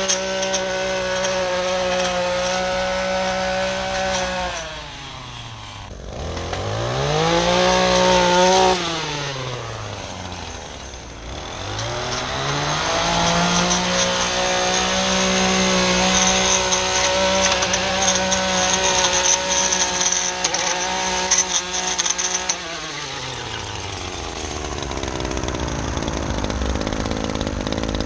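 Small two-stroke engine of a handheld lawn tool running at high revs, dropping to idle about four seconds in, revving up briefly, dropping again, then held at full throttle for about ten seconds before easing back to idle near the end.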